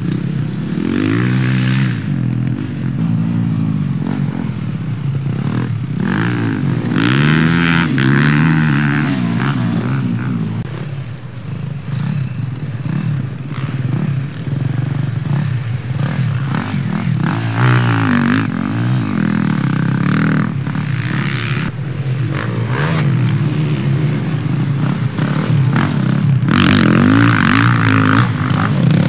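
Motocross motorcycle engines racing, revving up and down in repeated rising and falling sweeps as bikes pass, louder surges a few seconds in, around a third of the way in, and near the end.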